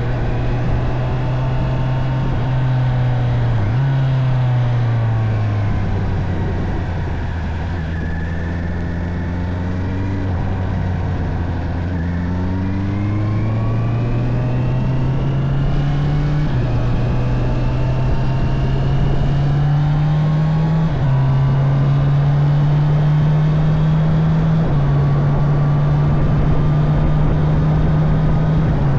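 Honda CB650R inline-four motorcycle engine running under way. The revs fall and stay low for several seconds, climb again about halfway through, then drop in steps three times as it shifts up through the gears, over a steady rush of wind noise.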